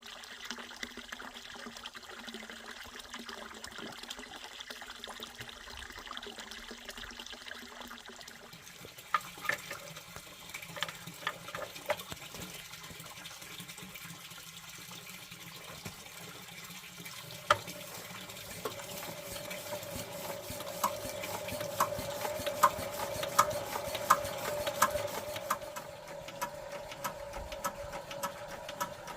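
Water running and trickling, with scattered small clicks and knocks from about nine seconds in, and a steady hum building from about eighteen seconds in.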